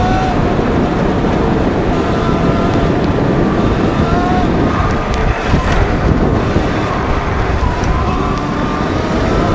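Sur Ron electric dirt bike being ridden over gravel trail: a steady rushing of wind and tyre noise, with the electric motor's faint whine rising and falling with the throttle.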